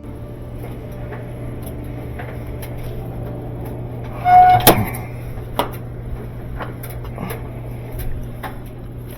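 Parts and tools being handled on a washing machine, scattered small clicks and knocks over a steady low hum. One loud clatter with a brief squeak comes about four and a half seconds in.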